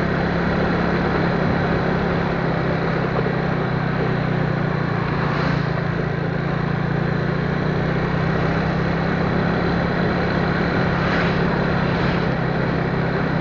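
A vehicle on the move: a steady low engine hum under a constant hiss of road and wind noise, unchanging throughout.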